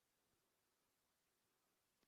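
Near silence: only a faint hiss of background noise.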